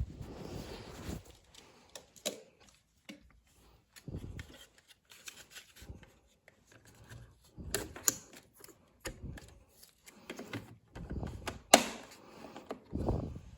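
Irregular clicks, knocks and rustles of hands handling tools and parts, with one sharp click about twelve seconds in as the loudest sound.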